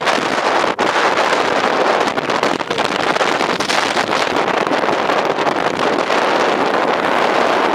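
Gale-force wind blowing hard across the microphone: a loud, steady rushing noise with a brief dip about a second in.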